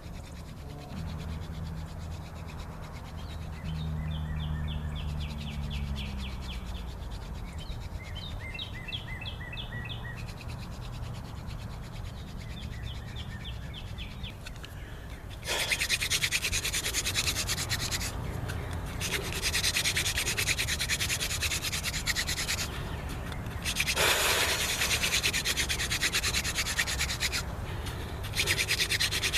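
Hand-drill fire-by-friction: a mullein-stalk spindle spun between the palms, grinding into a wooden fireboard with a dry rubbing sound. It starts about halfway in and runs in long stretches broken by brief pauses a few seconds apart, as the hands go back to the top of the spindle. The grinding is what makes the hot wood dust that becomes an ember.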